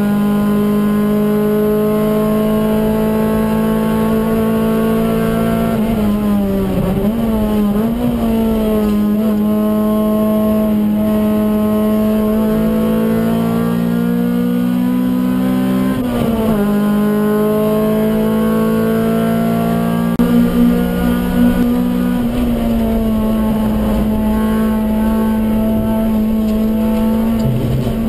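Honda Civic EG6's B16A 1.6-litre DOHC VTEC four-cylinder engine running hard at high revs, heard from inside the cabin. The pitch holds high and then dips and climbs again a few times, about a quarter, a half and three quarters of the way through, as the car is driven at speed on track.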